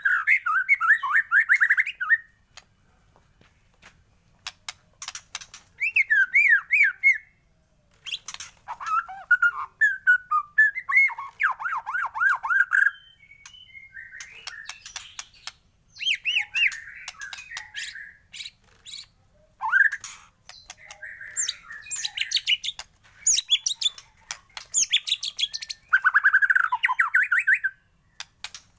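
White-rumped shama singing in a series of loud, varied phrases of rapid warbles and trills, each a second or a few seconds long, with short pauses between them.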